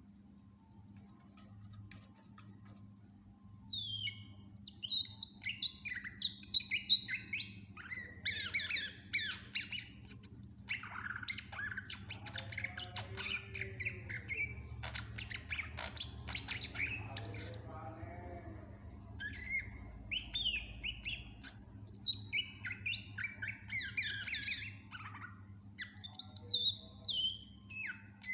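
Cucak ijo (green leafbird) singing a fast, varied stream of chirps, whistles and trills packed with phrases mimicked from other birds. The song starts about three and a half seconds in and thins briefly a little past the middle. A steady low electrical hum runs underneath.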